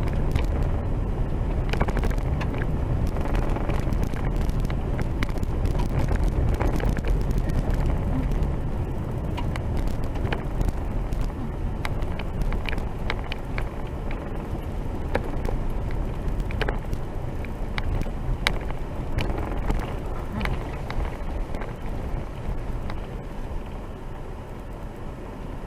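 Motor vehicle driving on a rough road: a steady low rumble of engine and tyres, with frequent sharp clicks, rattles and knocks.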